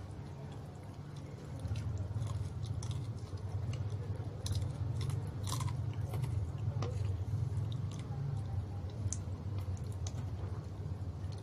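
A person chewing crispy fried chicken close to the microphone: scattered crisp crackles of the fried batter over a steady low rumble that gets louder about two seconds in.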